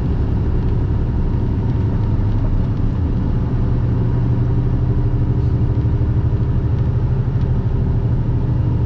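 Semi truck's diesel engine pulling steadily up a long grade, heard from inside the cab as an even low drone.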